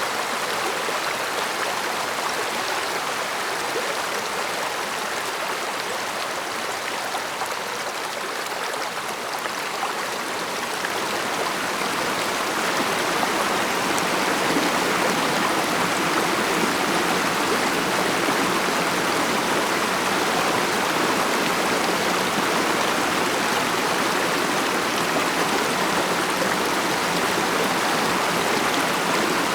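A stream of water flowing with a steady rushing murmur, swelling a little louder about twelve seconds in.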